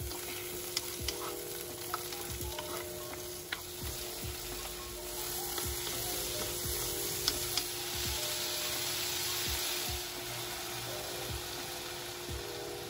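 Pork belly, onions and tomatoes sizzling in a nonstick wok as a wooden spoon stirs them, with light clicks of the spoon against the pan. The sizzle grows louder about five seconds in and eases off again near ten seconds.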